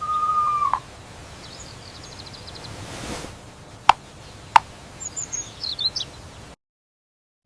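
Birds chirping over a faint background hiss, with two sharp clicks a little under a second apart near the middle. The sound cuts off abruptly to silence near the end.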